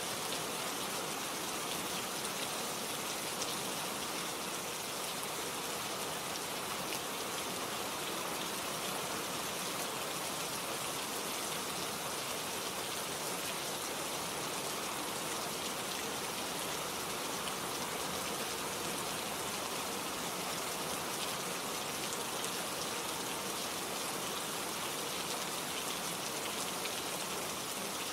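Steady rain falling, a dense, even patter of raindrops on leaves and surfaces.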